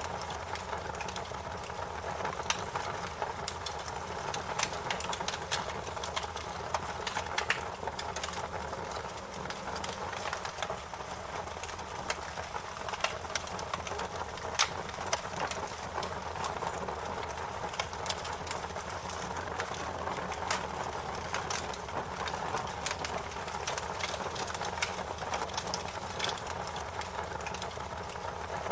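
Wood fire crackling: a steady hiss with frequent, irregular sharp pops and snaps.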